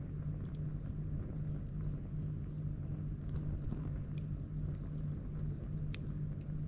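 Wood campfire crackling, with a few sharp pops (the clearest about four and six seconds in), over a steady low rumble and hum.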